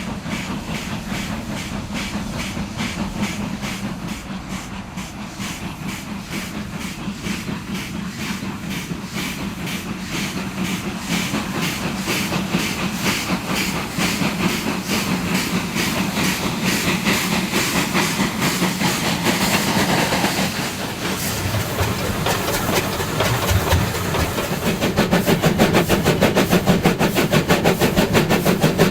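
Two narrow-gauge steam locomotives, one an NGG 13 Garratt, working a train together as a doubleheader: rapid, rhythmic exhaust beats with steam hiss, growing louder in the second half.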